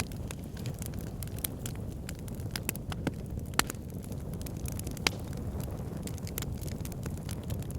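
Fire pit burning: a steady low rumble of flames with scattered sharp crackles and pops, the loudest pops about three and a half and five seconds in.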